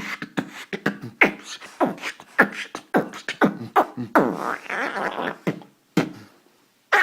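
Solo beatboxing: a quick run of sharp mouth-made percussion strokes mixed with short vocal sweeps that fall in pitch. It stops a little past halfway, and two single clicks follow about a second apart.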